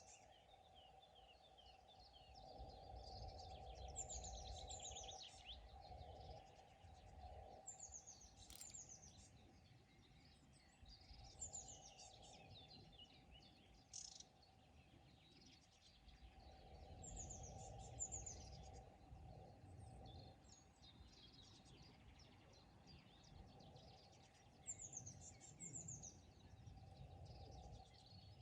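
Faint birdsong: short phrases of quick, high, falling notes that recur every few seconds, over a low rumble that swells and fades and a steady faint hum.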